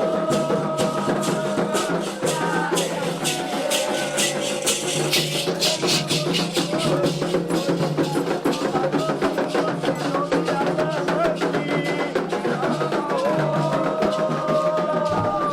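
Candomblé ritual music: a steady, dense percussion rhythm with rattles, under a singing voice in long held lines.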